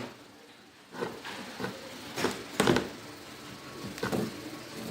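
Handling noise from working on an electrical cable: a few short clicks and knocks spread over a few seconds, the loudest near the middle.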